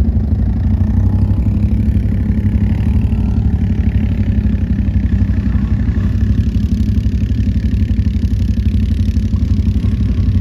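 ATV (quad bike) engine running steadily with an even, rapid pulsing.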